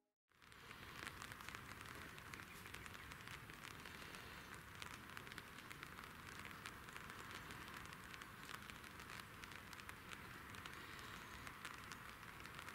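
Faint light rain: a steady hiss scattered with many small ticks of falling drops.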